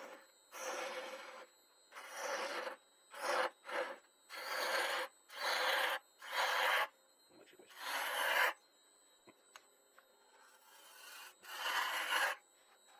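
A turning tool cutting the surface of a spinning wooden bowl on a lathe, in about ten short passes, each a brief rasping hiss with quiet gaps between.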